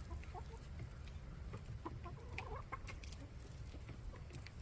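Backyard hens clucking softly in short scattered calls, over a steady low rumble.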